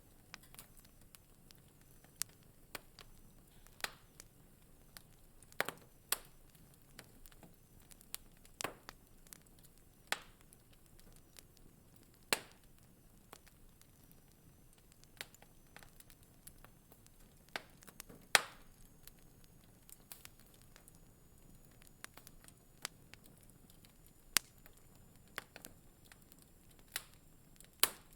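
Wood fire crackling in a fireplace: irregular sharp pops and snaps, a few every several seconds, over a faint steady hiss, with the loudest snap about two-thirds of the way through.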